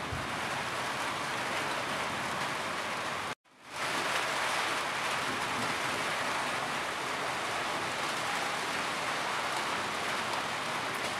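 Heavy rain pouring steadily as an even hiss. The sound cuts out completely for a moment about a third of the way in, then comes back.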